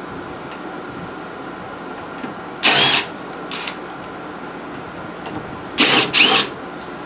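Short bursts of clattering and scraping from work on a small engine's metal parts: one a little before the middle, a smaller one just after, and two close together near the end. A steady hum runs underneath.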